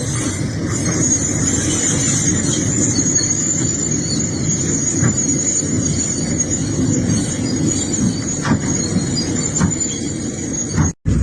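Excavator working, a dense, steady low rumble with a thin, steady high squeal over it. The sound cuts out for an instant near the end.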